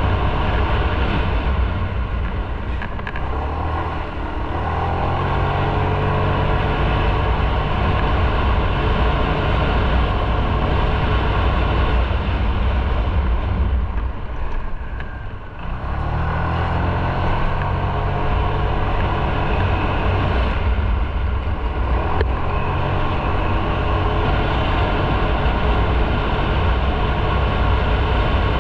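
Motorcycle engine running while riding, with wind and road noise. It eases off briefly about four seconds in and again about fifteen seconds in, then pulls again each time.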